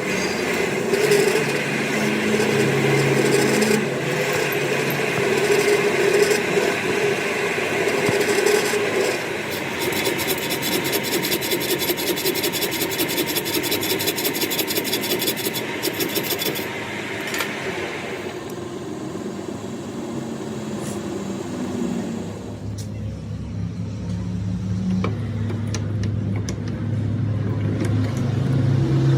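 Metalworking in a machine shop: a machine running while metal scrapes and rubs. The sound changes about 18 seconds in, and a lower steady hum takes over for the last few seconds.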